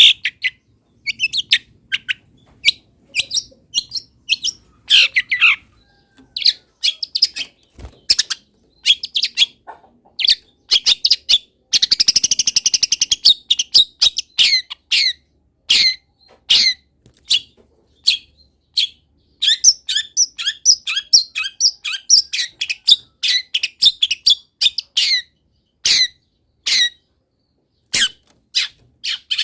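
Long-tailed shrike (cendet) singing a loud, rapid, varied song of sharp high chirps strung from mimicked wild-bird calls. About twelve seconds in comes a fast buzzy trill, and from about twenty seconds a long run of quick stuttering notes.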